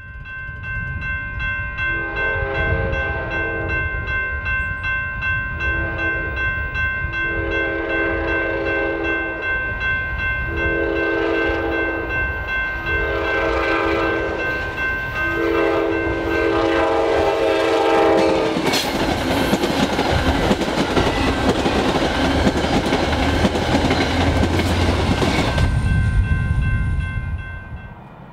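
A diesel locomotive's air horn sounds a series of long and short chord blasts over a steady rumble, then the train passes close by with loud wheel and rail noise that cuts off suddenly a couple of seconds before the end.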